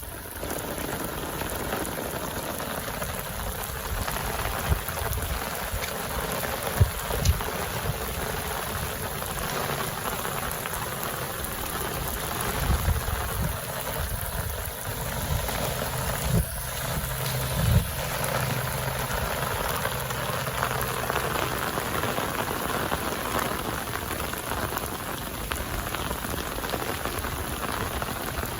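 Steady rain falling, with a few short low thumps in the middle stretch.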